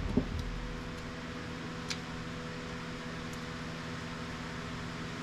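Steady machine hum, like a fan or air-conditioning unit, with a few fixed low tones over a soft hiss. There is a sharp click right at the start and a lighter click about two seconds in.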